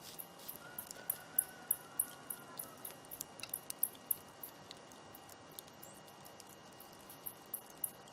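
Wood fire crackling: irregular sharp pops and snaps, several a second, over a low steady hiss of burning.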